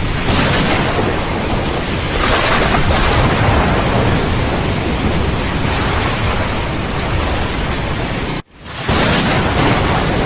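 Steady rain with swells of rumbling thunder. About eight and a half seconds in, the sound cuts out suddenly for a moment, then the rain resumes.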